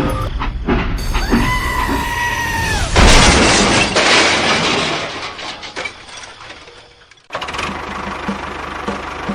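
A held high, scream-like tone, then about three seconds in a loud crash with shattering and breaking noise that fades away over several seconds. A steady pulsing sound starts abruptly near the end.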